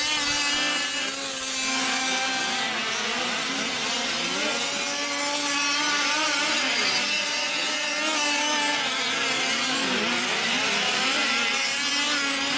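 Several 5th-scale RC trucks' small two-stroke gas engines buzzing around the track, their pitch rising and falling as the throttles open and close.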